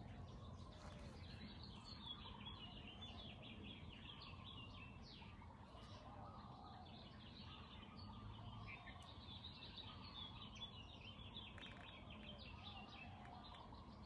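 Faint chorus of several garden songbirds, with rapid high twittering and chirping throughout and some lower calls among it, over a low steady background rumble.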